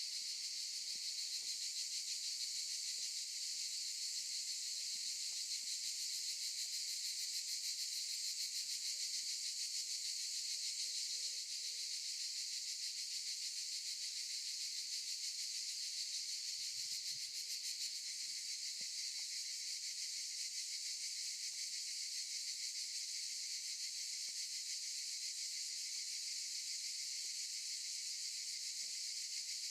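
Cicadas in a chorus: a continuous high buzzing drone, steady in level, with a fine rapid pulsing.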